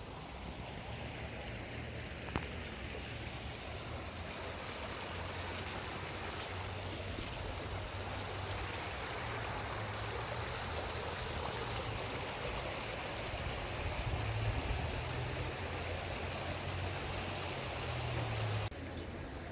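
Floodwater rushing steadily, an even watery rush with a low hum underneath.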